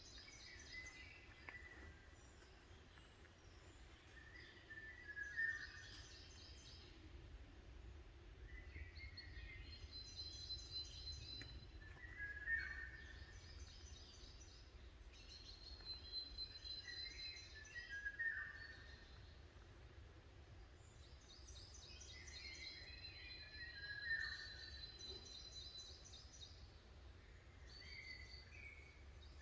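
Songbird singing faintly in woodland, repeating a short phrase of trills and a held whistle every five or six seconds, over a low steady rumble.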